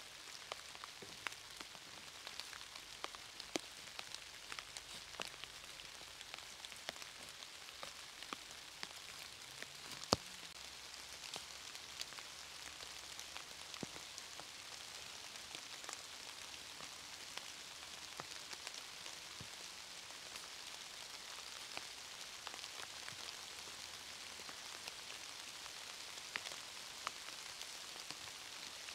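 Steady rain falling, with many separate drops ticking as they land and one sharper click about ten seconds in.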